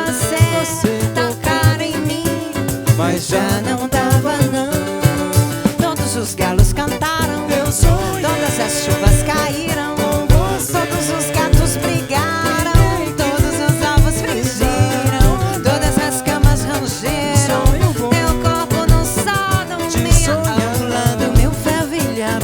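Live samba band playing, with cavaquinho, guitar, percussion and drum kit under a sung melody. A deep, regular drum beat comes in about six seconds in.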